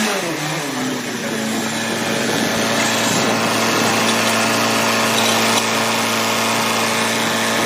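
Old tractor's engine running steadily with a constant low hum, being hand-started by pulling a wheel fitted to it.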